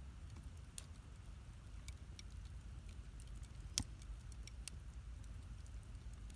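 Wood campfire crackling: sparse, irregular sharp pops, one much louder pop a little before the four-second mark, over a low steady rumble.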